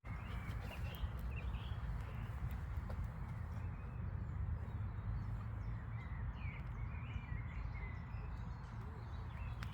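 Birds giving short chirping calls, scattered through and most frequent in the middle, over a steady low outdoor rumble.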